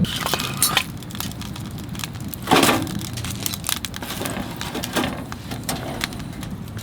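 Wood fire crackling in a wood-burning stove, with scattered irregular pops and one louder burst about two and a half seconds in.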